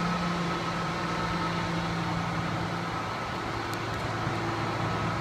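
Steady low mechanical hum with a couple of faint ticks a little before four seconds in.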